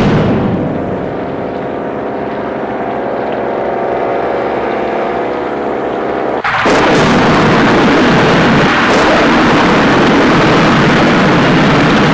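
A loud, steady droning hum that switches abruptly, about six and a half seconds in, to a dense rushing roar with a few sharp hits in it.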